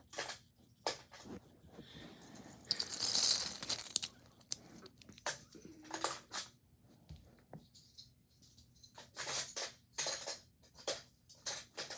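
Small die-cast toy cars clicking and clattering against each other as they are handled and put away, with a longer burst of rattling about three seconds in.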